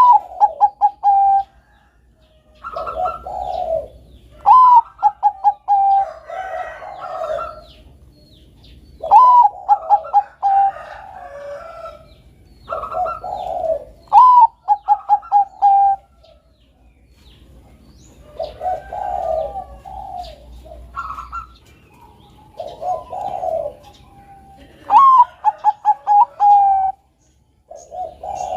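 Zebra dove (Bangkok-type perkutut) singing. It repeats its phrase every few seconds: a higher opening note, then a quick run of short, lower, evenly spaced coos, with lower, softer coos between the phrases. Faint high chirps sound in the background.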